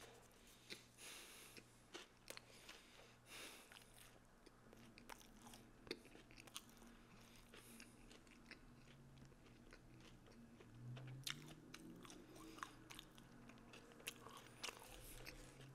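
A person chewing a mouthful of sub sandwich with the lips closed, close-miked: quiet wet mouth clicks and smacks at an uneven pace.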